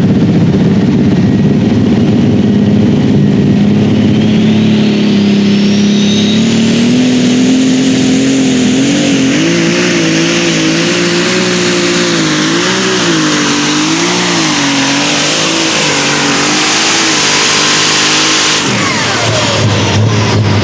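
A turbocharged diesel pulling tractor at full throttle down the track. The engine note climbs and then wavers up and down under load, over a high turbo whine that rises and holds. About two seconds before the end the throttle is cut: the engine drops away suddenly and the turbo whine falls.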